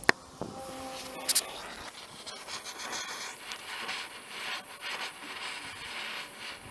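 Handling noise: rubbing and scraping with a sharp click at the start and a quick double click about a second later.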